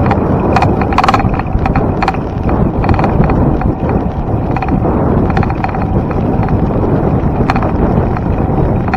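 A bicycle riding along: a steady, loud rush of wind on the microphone and tyre noise, with scattered short clicks and rattles from the bike.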